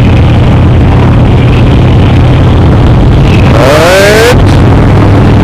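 Cruiser motorcycle under way, heard through a microphone inside the rider's helmet: a loud, steady engine drone mixed with wind noise. A brief rising tone comes in about three and a half seconds in.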